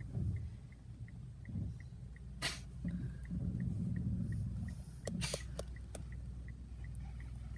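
Faint, rapid electronic beeping, about three short beeps a second, over a steady low rumble, with a few sharp clicks and rustles around the middle.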